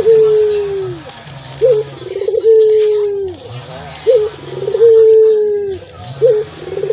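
Puter dove (a caged local turtle dove) cooing loudly and repeatedly, with a deep, full voice. Each phrase is a short rising note, a quick stuttered run, then a long low coo; about three phrases.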